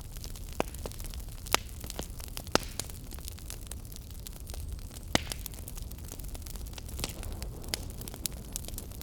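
Wood fire crackling in a fireplace: irregular sharp pops and snaps, the loudest about one and a half, two and a half and five seconds in, over a low steady rumble.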